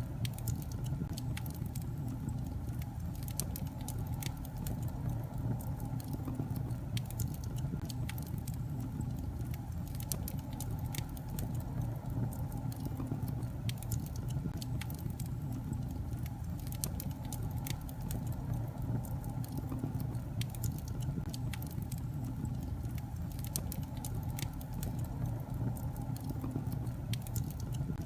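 Wood fire burning in a fireplace: a steady low rumble of the flames with frequent small, irregular crackles and pops from the logs.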